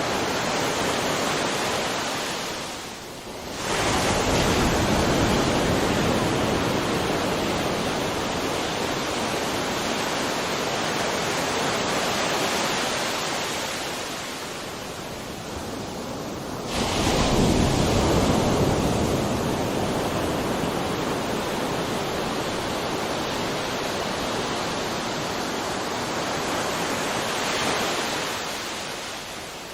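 Sea waves washing onto the shore: a steady rush of surf that dips briefly and then surges as a wave breaks, about four seconds in and again, loudest, about seventeen seconds in.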